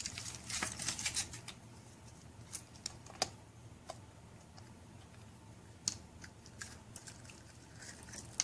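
A Kinder Surprise egg being unwrapped: foil crinkling for about the first second, then scattered small plastic clicks and taps as the toy capsule is handled and opened.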